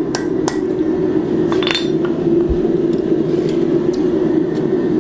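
Hammer blows on hot steel at an anvil: two strikes in the first half second, then a ringing metallic clink about a second and a half in, then a few light taps. A steady low drone runs underneath throughout.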